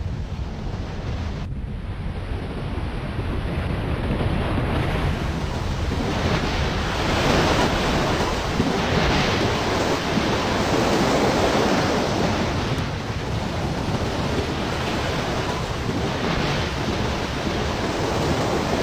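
Sea surf crashing, with wind buffeting the microphone: a steady rush of noise that swells to its loudest in the middle.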